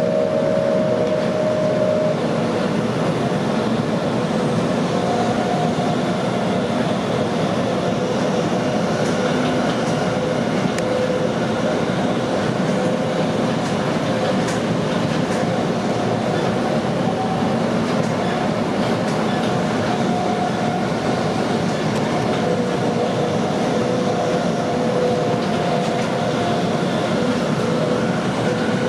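Inside a Sydney Trains M-set electric passenger train carriage running at speed: steady running noise of wheels on rails, with faint tones coming and going.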